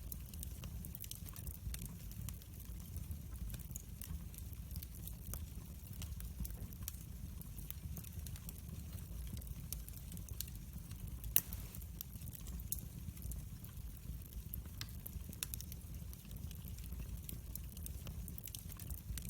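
Wood fire burning in a fireplace, heard close up: a steady low rumble of flames with frequent small crackles and pops, and one sharper pop a little past halfway.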